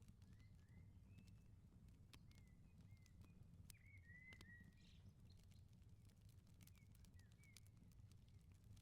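Faint wood fire crackling, with sharp pops at irregular intervals over a low steady rumble. Small birds chirp briefly several times.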